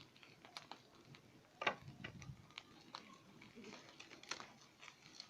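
Wood campfire crackling faintly: scattered, irregular pops and snaps, one louder snap a little under two seconds in.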